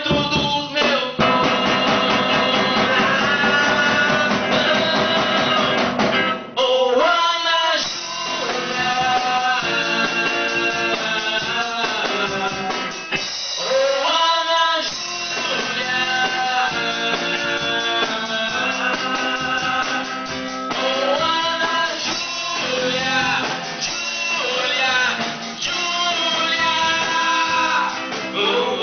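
Amateur band improvising a rock-blues song: strummed guitar chords with a voice singing over them from about seven seconds in.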